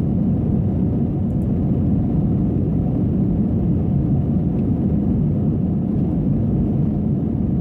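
Steady cabin noise inside an Airbus A321 in flight: a low, even rumble of engine and airflow.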